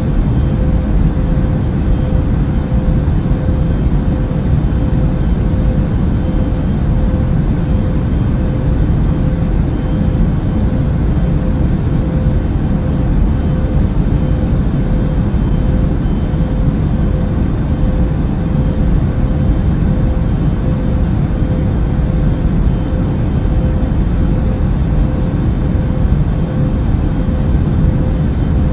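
Steady in-cabin drone of an Airbus A380 airliner in cruise: a deep even rush of engine and air noise with a faint steady hum running through it.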